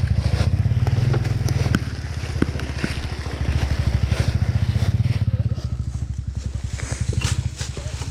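Dirt bike engine running at low revs, a steady pulsing chug, with scattered short clicks and knocks over it.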